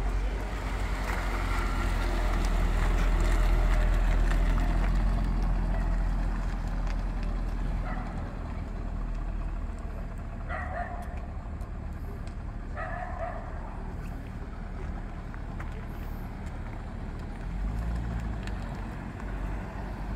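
Old car engines running and driving past, loudest a few seconds in, then a steadier idle-like drone. A dog barks twice near the middle.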